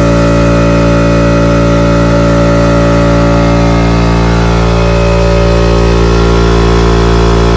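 Paint-spraying machine running loud and steady, its motor hum unchanging.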